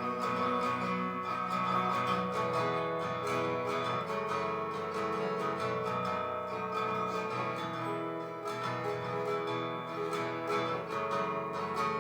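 Acoustic guitar strumming chords in an instrumental break of a live folk song.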